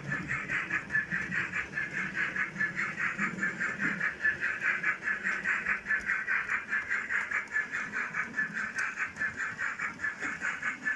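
Model railway locomotive running along the track: a steady, fast, even pulsing buzz at about six or seven beats a second.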